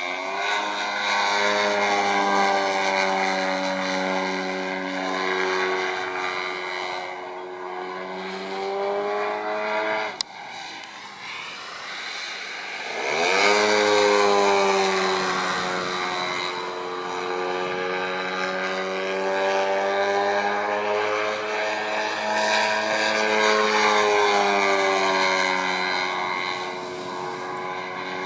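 3W 157 cc two-stroke petrol engine and propeller of a large radio-controlled Piper model, running loud. Its pitch slowly falls and dips at about ten seconds with a sharp click, then climbs steeply back within a few seconds and holds, rising and falling gently.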